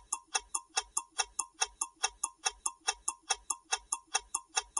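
Countdown-timer sound effect: quick, even clock ticks, about five a second.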